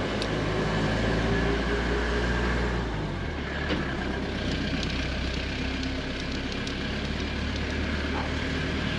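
Suzuki Jimny's engine and road noise heard from on board while driving. The low engine hum changes about three seconds in.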